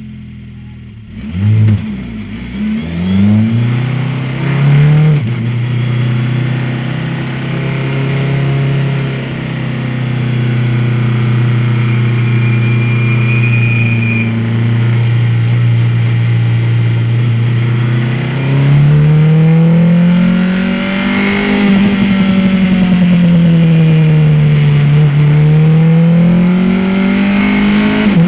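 Race car engine revving in quick blips after a short quiet start, then holding a long steady note. In the last third it climbs and drops in slow waves as the throttle opens and closes.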